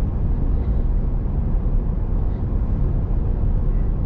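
Steady low road and engine rumble inside a moving vehicle's cabin at highway speed.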